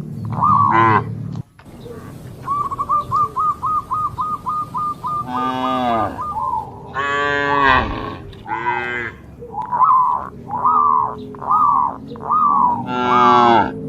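Cattle mooing repeatedly: many short, rising-and-falling calls mixed with several longer, fuller moos, and a quick run of short repeated notes about 3 seconds in.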